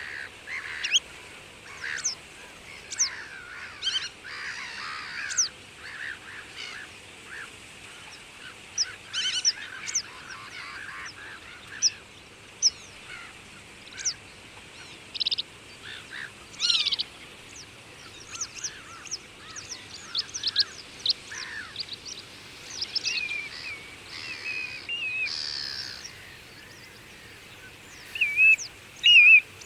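Wild birds calling and singing in a busy chorus of short chirps and whistled notes, with a few louder calls near the end.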